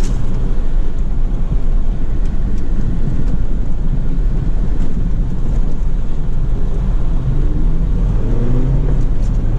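A steady low engine rumble of a running vehicle, heard from inside a car.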